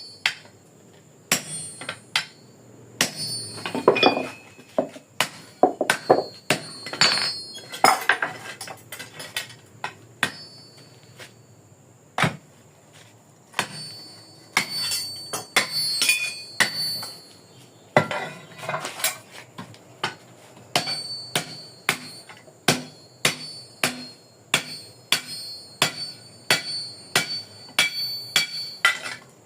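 Hand hammer blows on the steel of a hoe as its socket hole is shaped, struck irregularly about one to two times a second, with a metallic ring after each strike.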